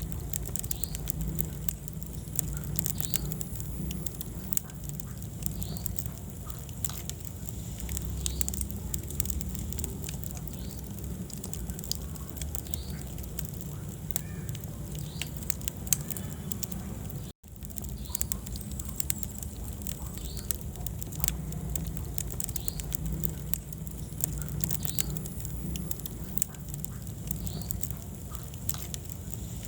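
Wood fire burning in a fireplace: a steady low rumble of flames with frequent sharp crackles and pops throughout. The sound cuts out for an instant a little past halfway.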